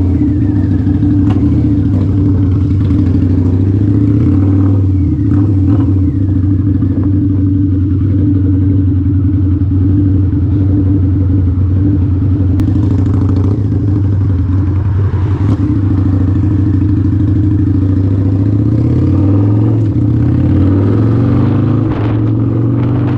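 Harley-Davidson V-Rod's liquid-cooled V-twin idling loudly just after start-up. The engine speed creeps up slightly near the end.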